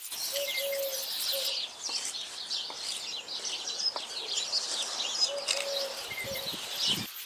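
Garden birds chirping and singing, with a pigeon or dove cooing a short phrase twice. A low rumble comes just before the end.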